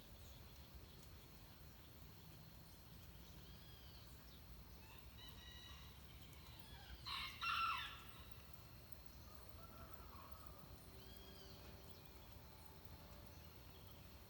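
Dawn chorus of birds: faint, scattered bird calls, with one loud harsh bird call in two quick parts about seven seconds in.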